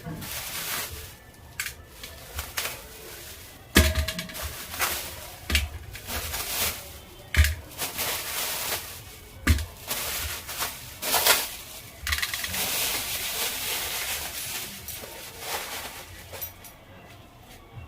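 Kitchen work: irregular knocks, clinks and clatter of utensils and dishes, with a stretch of steady hiss about twelve seconds in.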